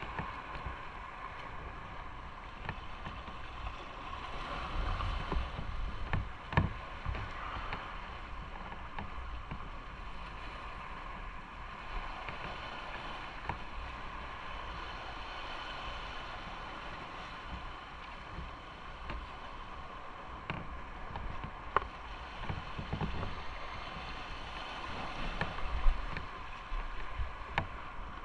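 Motorcycle riding along, with its engine running under a steady rush of wind and road noise, and a few brief knocks and louder swells.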